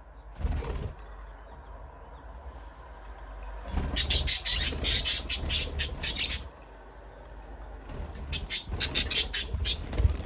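Budgerigars chirping in two long runs of rapid, high, short notes, with a brief rustle about half a second in.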